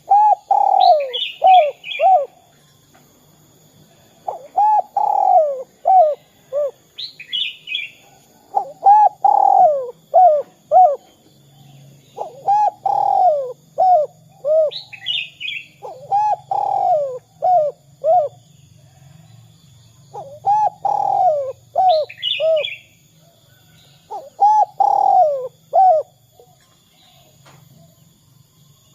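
Spotted dove (derkuku) singing its cooing song over and over, one phrase about every four seconds: each a drawn-out coo followed by a few short clipped notes.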